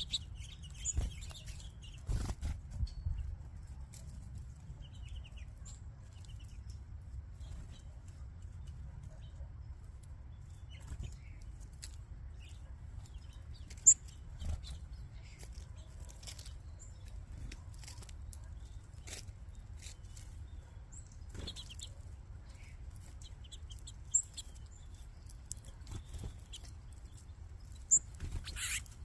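A crowd of small songbirds and doves feeding: scattered short chirps and bursts of wing flapping over a steady low rumble, with a few sharp clicks, the loudest about halfway through and near the end.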